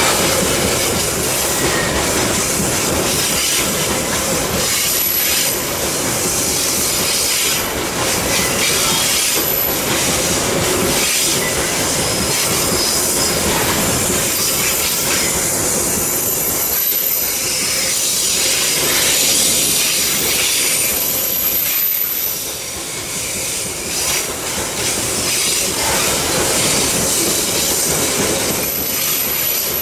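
Loaded coal wagons of a long freight train rolling past on the rails, a steady loud rumble and clatter of wheels, with high-pitched wheel squeal coming and going several times.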